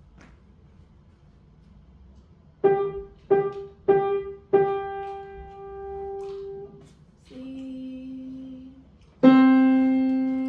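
Piano playing a simple melody. After a short pause, one note is struck four times, the last held. A softer lower note follows, then a louder low note is struck near the end and left ringing.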